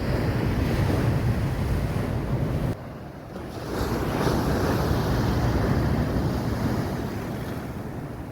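Ocean surf breaking and washing up the beach, with wind rumbling on the microphone. The rush drops off abruptly a little under three seconds in, then swells up again and slowly fades.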